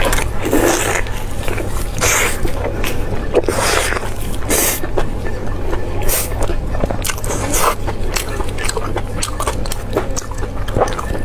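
Close-miked eating sounds: irregular crisp crunches and wet chewing noises, over a steady low hum.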